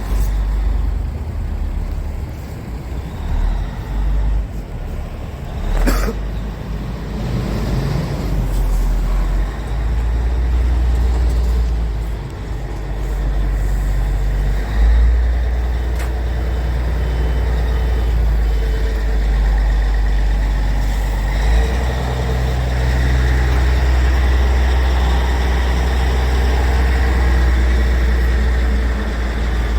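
Scania R450 truck's six-cylinder diesel engine running steadily at idle, with a short sharp noise about six seconds in.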